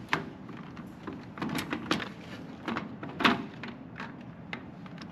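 Handling the parts of a microwave oven's casing and control module during a repair: a series of sharp clicks and knocks, the loudest about three seconds in.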